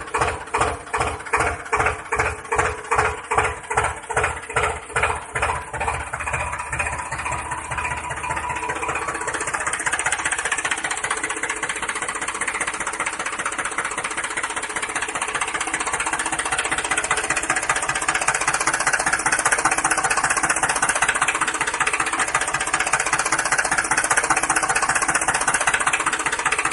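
Tractor engine chugging: slow, even beats, about two or three a second at first, speed up over several seconds and merge into a steady running sound.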